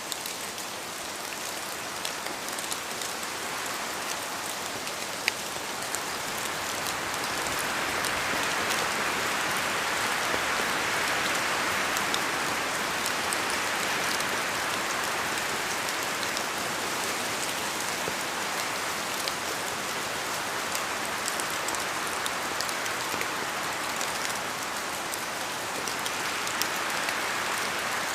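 Steady rainfall with scattered sharp drop hits, swelling somewhat heavier about a third of the way in.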